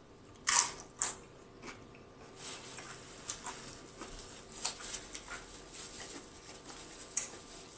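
A loaded tortilla chip bitten into with two loud crunches within the first second, then chewed with a softer run of small crunches and crackles.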